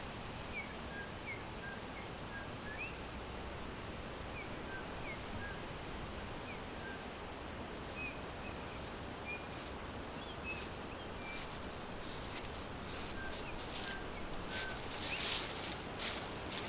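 Birds chirping in a forest: many short, faint, high chirps scattered over a steady background hiss, with a few brief bursts of higher rustling-like noise near the end.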